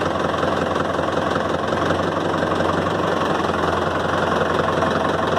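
Mahindra Yuvo 575 DI tractor's four-cylinder diesel engine idling steadily through a newly fitted New Holland silencer, a bold exhaust note with an even pulsing beat.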